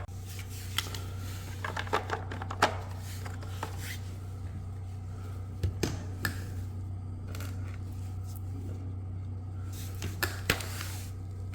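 Scattered light clicks and knocks of hard plastic bidet parts being handled, over a steady low hum.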